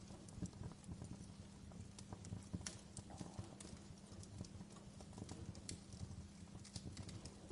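Wood fire crackling, with irregular pops and snaps over a low, steady rumble.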